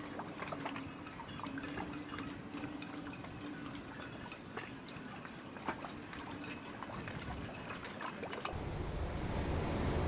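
Water pouring and dripping, with many small splashes and crackles. About eight and a half seconds in, it cuts to a louder, steady low rumble of wind and water.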